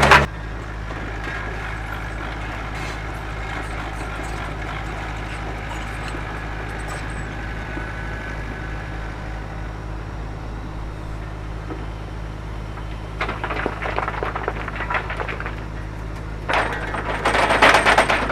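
Excavator's diesel engine running steadily at low revs. Near the end come two stretches of rough grinding and scraping as rock is dragged against rock.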